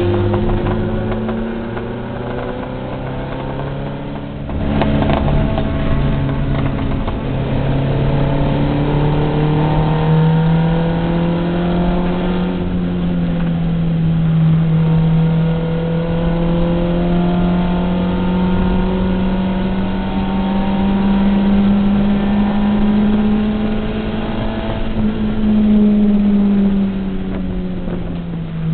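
Race car's engine heard from inside the cabin while lapping a circuit. Its pitch dips about four seconds in, then climbs slowly through most of the clip and falls again near the end.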